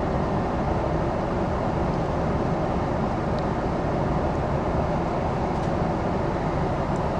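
Steady airliner cabin noise in flight: the even, constant hum of the engines and rushing air, with no change in level.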